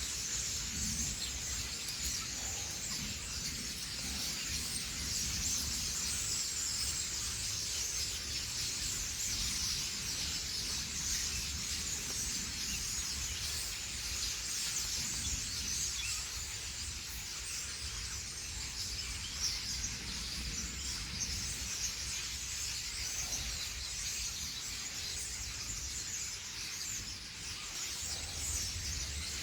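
A dense, steady chorus of many small birds chirping and twittering together, over a low background rumble.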